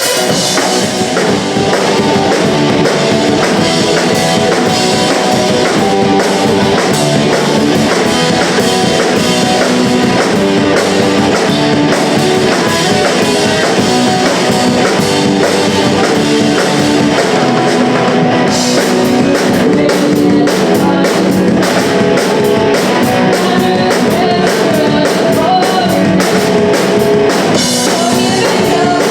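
Live punk rock band playing loudly: drum kit and electric guitars driving through a song. The high end gets brighter and busier about two-thirds of the way through.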